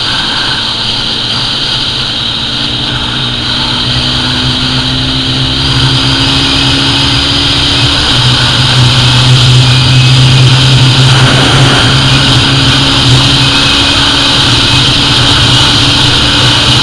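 SYM T2 motorcycle engine held at high revs under full throttle during a top-speed run, its pitch creeping slowly upward as speed builds, with steady wind rush. The engine note grows a little louder about eight seconds in.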